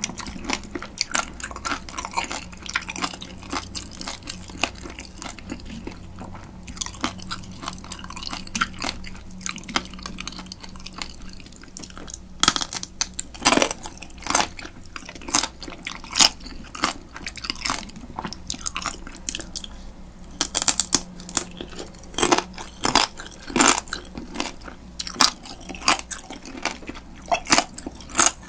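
Close-miked chewing and biting of spicy marinated raw crab, crab shell and all, with a steady stream of wet crackles and sharp crunches of shell, the loudest cracks coming in clusters about halfway through and again in the last third.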